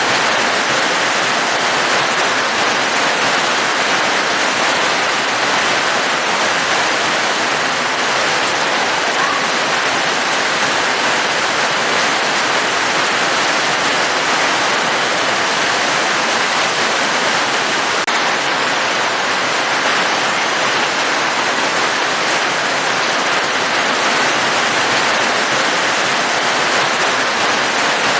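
Steady rain, an even, unbroken hiss with no single drops standing out.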